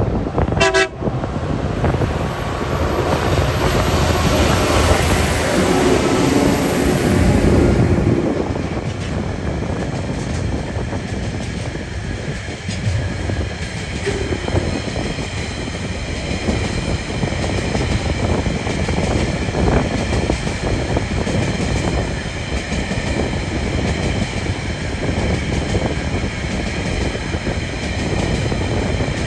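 Diesel freight train led by TasRail locomotives TR06 and TR15 passing close by. There is a short horn toot just under a second in, then the locomotives pass loudest over the next several seconds. After that a long line of container wagons rolls by with a steady rumble and high ringing tones from the wheels.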